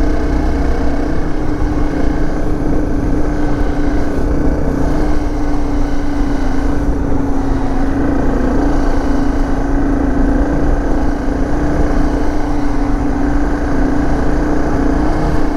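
Dirt bike engine running at a steady cruising speed with a nearly constant pitch, under heavy low wind rumble on the microphone.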